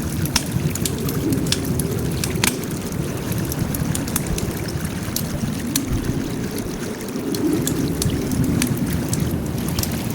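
Wood fire burning with a steady low rush of flames and frequent irregular sharp crackles and pops.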